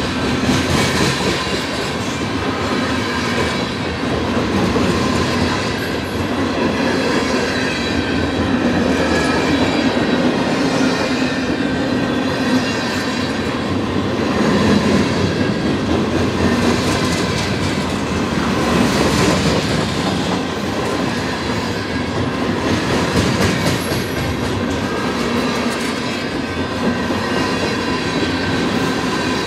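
Freight cars of a passing manifest train rolling by close up: a steady rumble of steel wheels on rail that swells every couple of seconds, with clickety-clack from the wheels.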